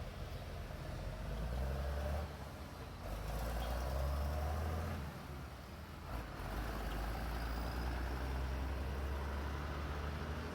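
A vehicle engine running with a low, steady hum that swells and eases in level every few seconds.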